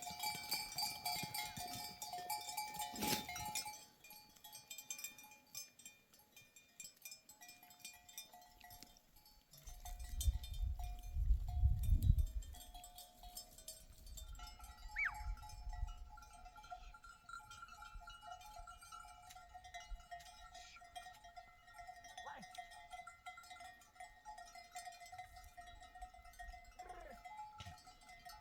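Bells on a grazing flock of sheep ringing and clinking steadily. About ten seconds in, a loud low rumble lasts a couple of seconds.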